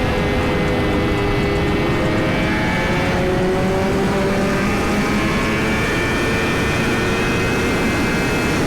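Suzuki GSX-R1000's inline-four engine at highway cruising speed under heavy wind rush on the rider's microphone. The engine note drifts gently up and down with the throttle.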